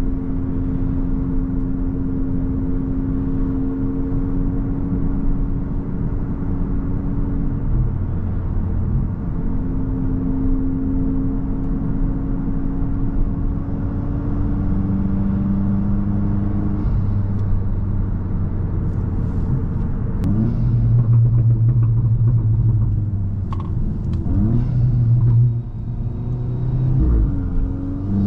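Volkswagen Mk8 GTI's tuned 2.0-litre turbocharged four-cylinder with an aftermarket cat-back exhaust, running with a steady drone while cruising. From about two-thirds of the way through it accelerates in rising sweeps, broken by short dips at the gear changes.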